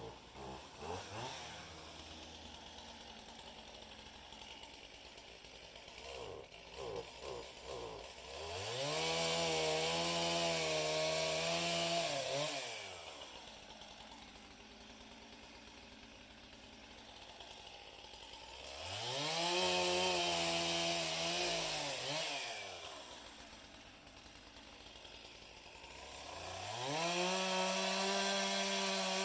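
Stihl MS 200T two-stroke top-handle chainsaw idling with a few short throttle blips, then run up to full throttle three times for about four seconds each, dropping back to idle between runs; the third run starts near the end.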